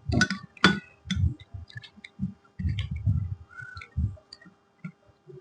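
Close-up chewing and eating sounds: irregular soft low thuds of chewing, with a couple of sharper crisp crunches in the first second.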